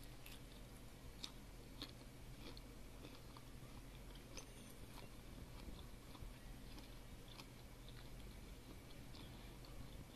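Faint chewing of a person eating, with small scattered clicks and crunches.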